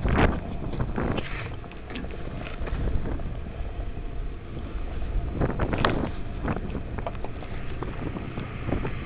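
Wind rumbling on the microphone, with louder gusts or bumps at the start, about a second in, and near six seconds.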